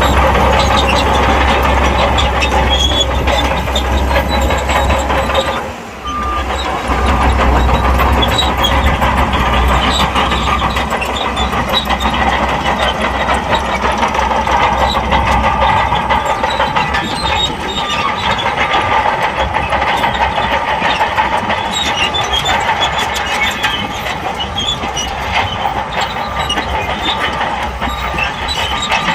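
Shantui crawler bulldozer working: its diesel engine runs under load while the steel tracks clank steadily. The sound dips briefly about six seconds in.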